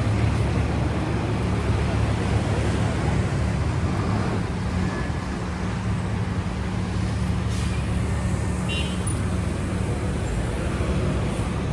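Busy city street traffic: vehicle engines running in a steady low drone, with voices of passers-by mixed in.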